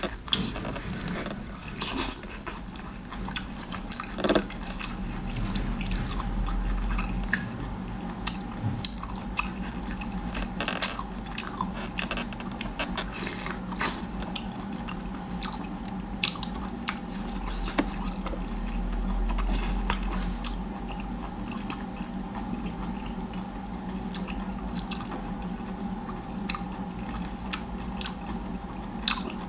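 A person chewing and biting food close to the microphone, with irregular wet crunches and smacks, over a steady low hum.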